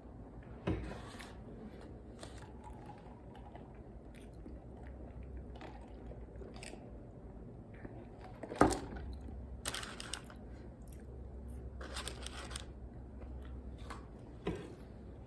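A person chewing a burger and fries close to the microphone. There are three sharp knocks: one near the start, the loudest about two-thirds of the way through, and one near the end. Between them come short bursts of crunching and rustling.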